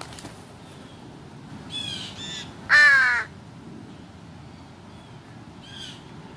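American crows cawing: two short caws, then one much louder, longer caw, and a fainter caw near the end.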